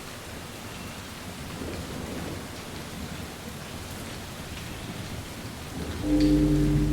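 Steady rain falling. About six seconds in, a loud deep rumble sets in suddenly, carrying a low, sustained tone.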